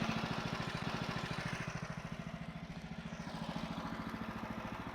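The HM130 sawmill's 14 HP Kohler engine idling with a steady, even beat that dips slightly in level midway.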